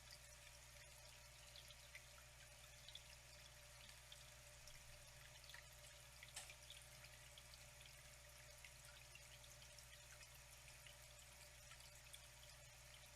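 Faint, steady flowing water, with many small scattered splashes and drips.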